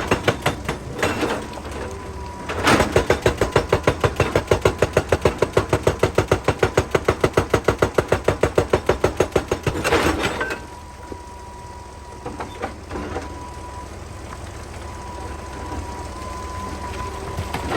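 Excavator-mounted hydraulic rock breaker hammering rock in a fast, even run of blows, about six or seven a second, over the diesel engine. It stops after about eight seconds, leaving the engine running with a steady high whine.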